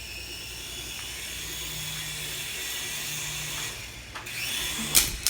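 Small toy remote-control helicopter's electric motor and rotors whirring steadily with a high whine, then two sharp knocks near the end.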